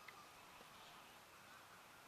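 Near silence: a faint even hiss of outdoor ambience, with a single soft tick about a tenth of a second in.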